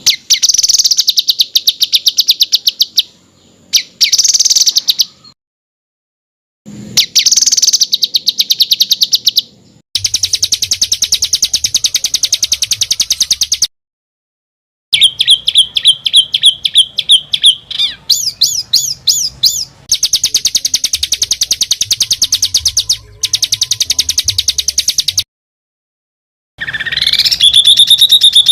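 Songbird pouring out rapid, harsh trills ('roll rapat') in several loud bouts. The bouts are split by abrupt short silences where the recording is spliced, and near the end a note rises and then trills steadily.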